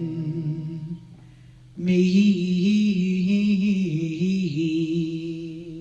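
Long held sung notes closing a song: one sustained note fades out about a second in, and after a short gap a second long note is held and slowly fades near the end.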